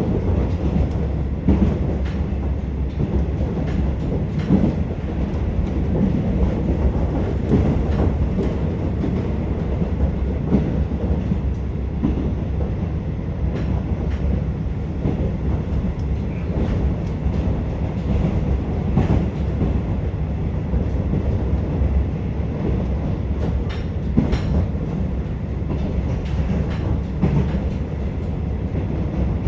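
Cabin noise of a KiHa 47 diesel railcar running along the line: a steady low rumble of engine and wheels on rail, with frequent irregular clicks of the wheels over rail joints.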